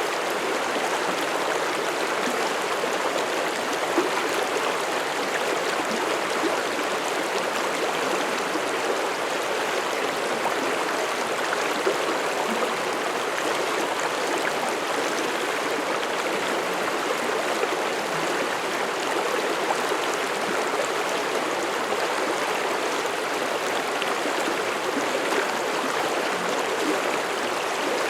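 Mountain stream flowing over rocks: a steady rushing and babbling of water, with small splashes now and then.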